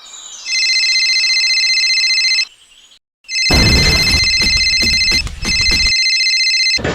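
Electronic ringing tone, a steady high trill, sounding twice with a short break between; the second time a loud low rumble plays under it.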